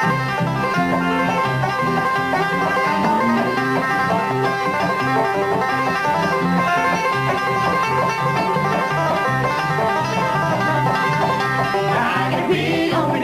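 Bluegrass music with a banjo picking quick rolls over guitar accompaniment. Near the end a voice comes in singing.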